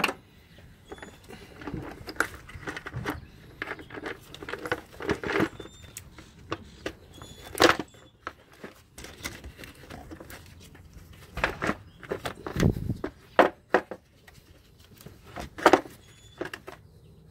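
Irregular clicks, clinks and knocks of hand tools and small metal parts being handled during engine work, with a few louder knocks.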